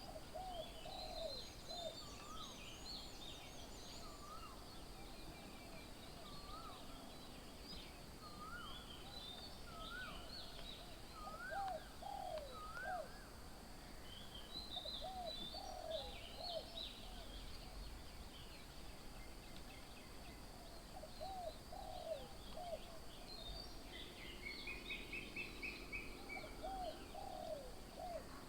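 Several wild birds calling: a repeated low, hooked call in groups of two or three, with higher chirps throughout and a short rapid trill near the end.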